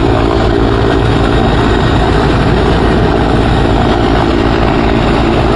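Helicopter running, a loud steady engine and rotor noise with fast low pulsing from the blades.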